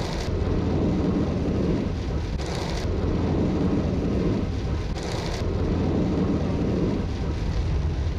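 Torrential rain pouring onto a moving car, heard from inside the cabin over a steady deep rumble. Brief hissing surges come about two and a half seconds in and again about five seconds in.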